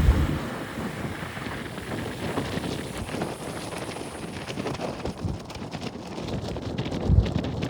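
Wind buffeting the microphone in a steady rumbling hiss, with a heavy gust about seven seconds in.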